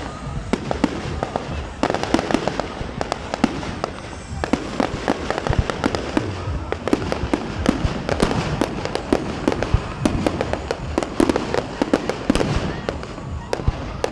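Fireworks going off in quick succession: many sharp bangs and crackles, one after another, over a continuous background rumble.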